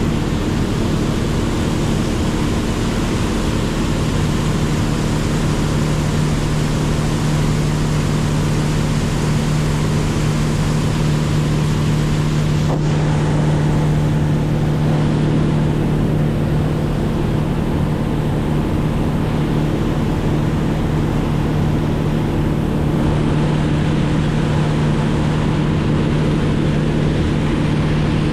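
A motorboat's engine running at a steady speed, with wind on the microphone and water rushing past the hull.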